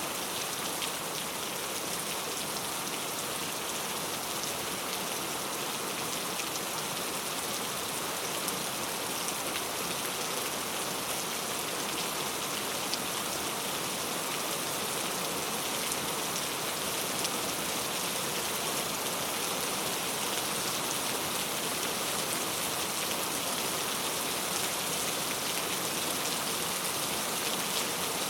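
Steady heavy rain falling on a surface, an even continuous hiss with the patter of individual drops.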